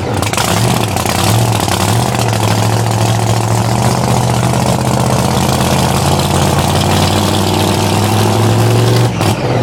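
Supercharged engine of a 1966 Chevy truck held on a two-step launch limiter. It is pinned at one steady rpm and crackles as the limiter cuts the ignition, then drops off just before the end.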